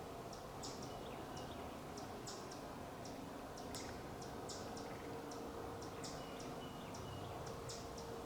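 Short, high chirps repeating irregularly, about two a second, over a faint steady background hiss.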